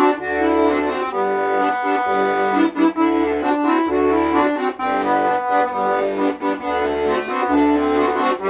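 Accordion playing an instrumental passage: a sustained melody over a steady left-hand accompaniment of bass notes alternating with chords.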